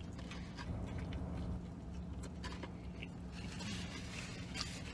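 A man biting into and chewing a McDonald's McRib sandwich: faint, soft mouth noises with a few small ticks, over a steady low hum.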